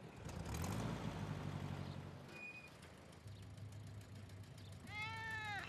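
Cartoon house cat giving one drawn-out meow near the end, rising then falling in pitch, over the low hum of a car interior. A rushing noise swells and fades in the first two seconds.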